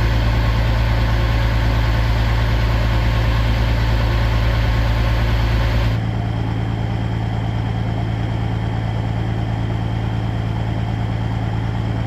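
Diesel semi-truck engine idling steadily with an even low hum. About halfway through the sound changes abruptly to a slightly quieter, different idle.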